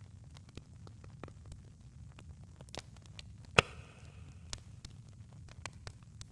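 Campfire burning: scattered small pops and snaps of burning wood over a low steady rumble, with one loud sharp pop a little past halfway followed by a brief hiss.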